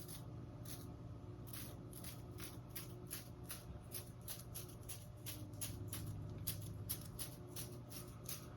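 Toothbrush bristles loaded with acrylic paint, flicked over and over with a fingertip to spatter specks of snow onto a canvas: faint quick ticks, about three a second.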